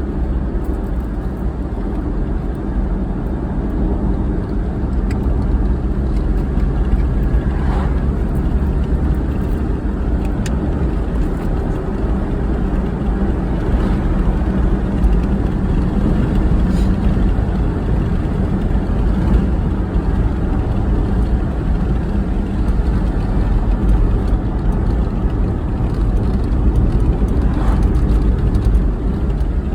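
A car driving at a steady speed: engine and tyre road noise making a steady low rumble.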